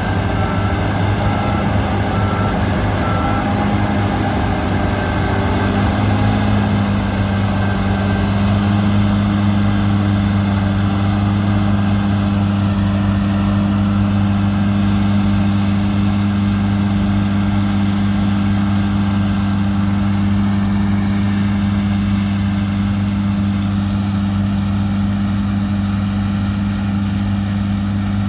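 Large farm machine's diesel engine running steadily at working speed, its note shifting slightly a few seconds in. A repeating electronic beep, about two a second, sounds at the start and stops about three seconds in.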